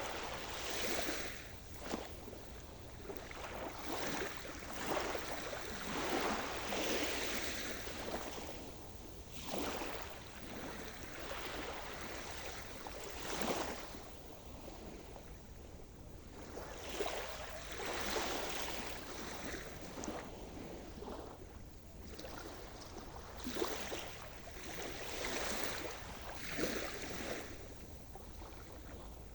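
Sea surf: small waves washing in and breaking one after another, each swelling and falling back every couple of seconds.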